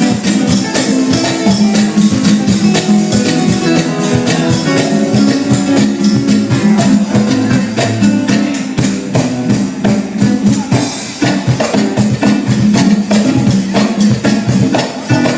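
A live band playing an instrumental passage with guitar and percussion, including a tambourine-like shaker, over a steady bass line, with no singing.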